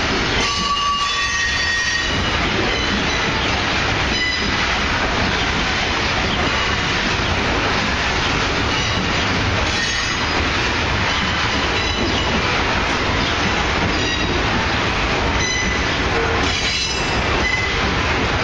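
Loaded iron-ore hopper wagons rolling past in a steady loud rumble. Wheels give short high squeals now and then, and wheel clacks over rail joints come every couple of seconds.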